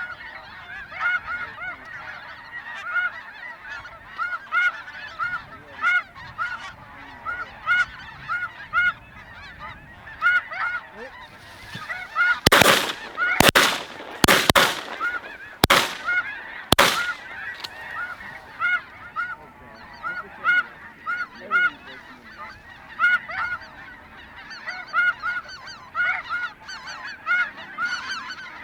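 A steady chorus of high, repeated snow goose calls. About halfway through, a quick volley of about five shotgun shots rings out over roughly four seconds.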